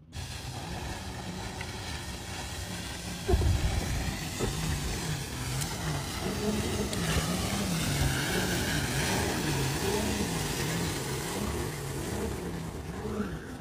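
Jet ski engine running, its pitch rising and falling again and again, over a steady rush of wind and water. A heavy thump comes about three seconds in.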